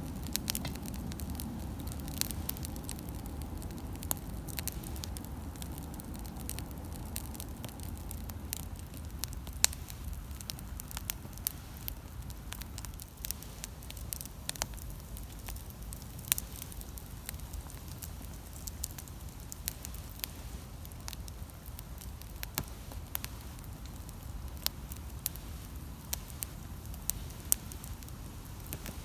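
Wood campfire crackling: irregular sharp snaps and pops of burning wood, a few of them much louder than the rest, over a low steady rumble.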